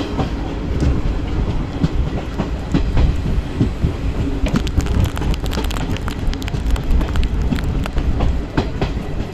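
Passenger train running along the track: a steady low rumble with irregular clicks and clatter from the wheels on the rails.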